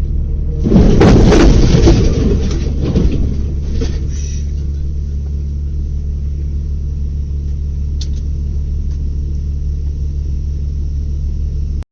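Steady low drone of a vehicle driving, with a loud crash of several impacts and scraping about a second in that lasts roughly two seconds and then dies away: a road collision.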